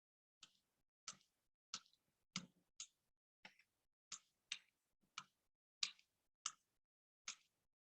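A series of short, sharp clicks or taps, about a dozen at an uneven pace of roughly one to two a second.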